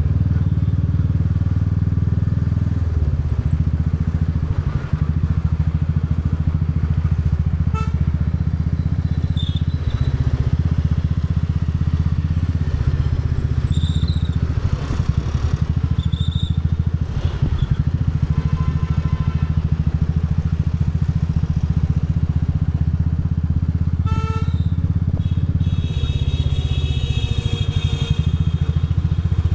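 Royal Enfield Bullet 350's single-cylinder engine and exhaust running steadily while the motorcycle is ridden, a low, even thump of rapid firing pulses.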